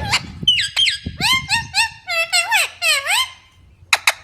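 Green parrots calling: a quick series of shrill squawks that glide up and down in pitch, with a few sharp clicks near the end.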